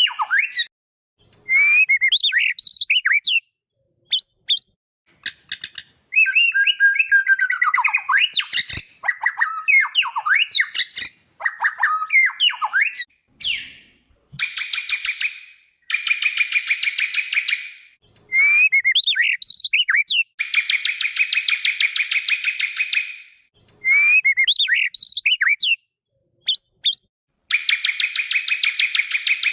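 White-rumped shama (murai batu) song: phrases of quick whistled notes and swooping glides alternating with long, fast buzzy trills two to three seconds each, separated by brief pauses.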